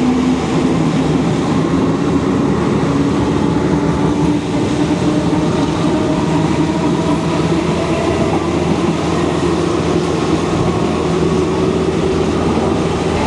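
Thai passenger train running along the track, heard from on board: a loud, steady rumble of wheels on rails with a low hum that slowly rises in pitch.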